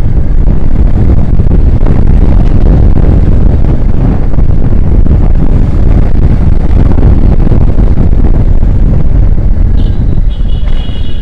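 Wind buffeting the microphone over a motorcycle engine running steadily while riding through traffic. A vehicle horn honks briefly near the end.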